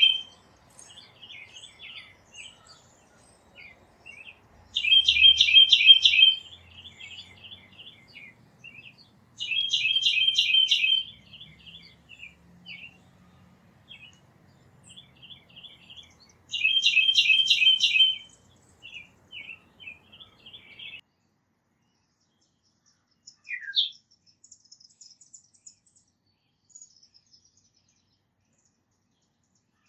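A songbird singing a short trill of rapidly repeated notes, each phrase about a second and a half long and repeated four times several seconds apart, with softer chips in between. The song stops about two-thirds of the way through, leaving a single sliding call and a few faint chips.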